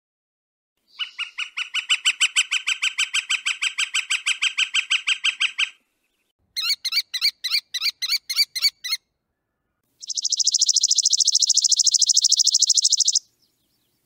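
Three separate series of bird calls. First, a rapid run of about seven evenly repeated notes a second for nearly five seconds. Then a shorter, harsher series of about nine notes. Last, a very fast, high rattle for about three seconds.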